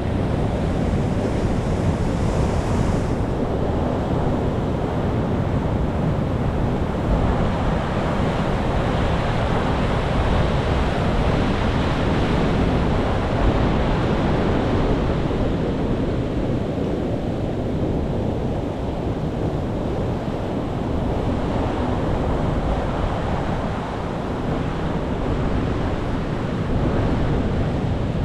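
Ocean surf: large waves breaking and washing in a continuous rumble that swells and eases, with wind on the microphone.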